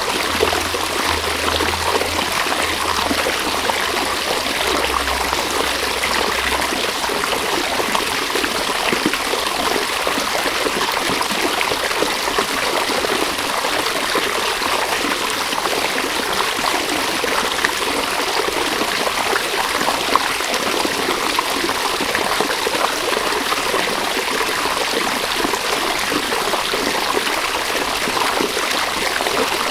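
River water flowing steadily: an even, continuous rushing with no breaks.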